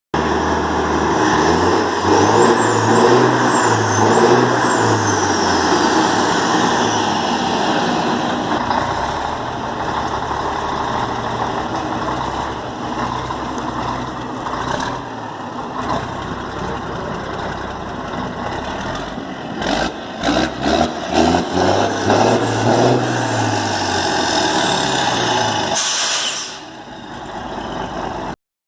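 1975 Scania 111 truck's six-cylinder diesel engine running and revved up and back down twice, a high whine rising and falling with the revs. Near the end comes a short burst of air hiss.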